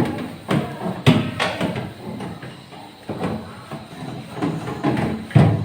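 Irregular knocks and clatter of refrigerator parts being handled during cleaning, loudest about a second in and again near the end.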